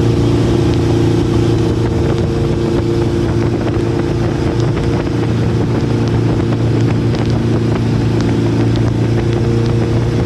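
Inboard engine of a vỏ lãi (narrow Vietnamese wooden boat) running steadily at speed under way, a constant drone with no change in pitch.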